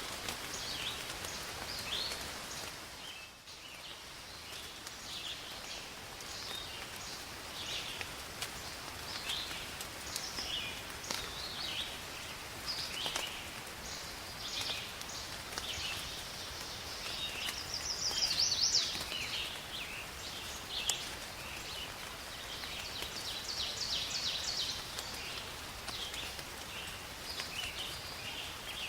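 Steady rain falling, with birds chirping in short repeated calls and trills throughout; one louder trill comes about two-thirds of the way through.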